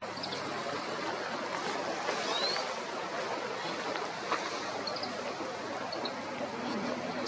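Steady rushing of stream water, with a few faint short calls of an Oriental greenfinch (kawarahiwa) above it, one a quick rising note about two seconds in and brief notes later on.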